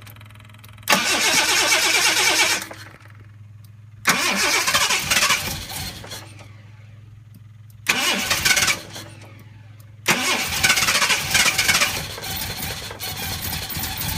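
Jaguar XJ6 straight-six being cranked on the starter in short bursts, three tries with pauses between. On the fourth try, about ten seconds in, it starts and keeps running.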